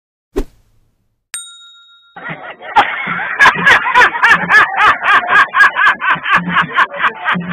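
A short knock, then a single bell-like ding that rings and fades. About two seconds in, music starts with a fast, even beat and a pulsing bass line: meme sound-effect clips played one after another.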